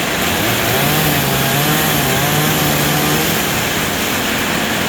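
Chainsaw running steadily, cutting up a fallen tree, with a dense, even noise throughout.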